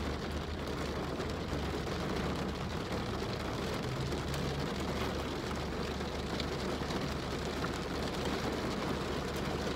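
Steady rain on a car's roof and windows, heard from inside the cabin as an even hiss, with a low steady hum underneath.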